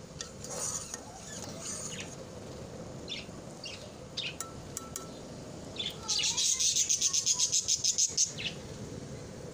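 Birds chirping over the low, steady bubbling of a pan of fruit syrup at a hard boil. About six seconds in, a bird gives a loud, fast run of chirps, about ten a second, for roughly two seconds.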